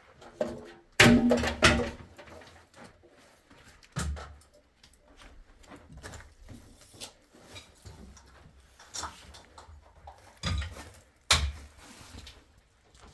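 Scattered knocks and clatters at uneven intervals. The loudest few come about a second in and again near the end.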